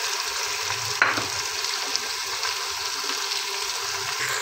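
Steady sizzling of hot oil in a pressure cooker as tomato paste cooks in with fried onion and ginger-garlic paste, with a single light knock about a second in.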